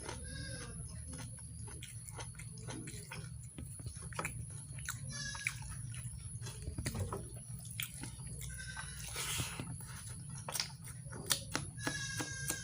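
Close-up chewing and wet mouth clicks of someone eating mutton curry with rice. A goat bleats a few times in the background, once near the end.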